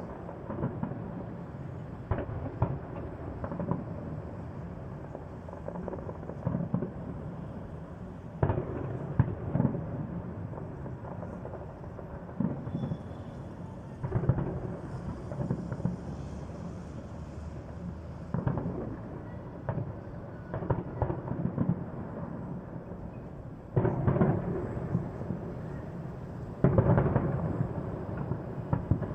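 Fireworks display: a continuous run of shell bursts, bangs and crackle over a rumbling background, with denser, louder volleys about eight seconds in and again near the end.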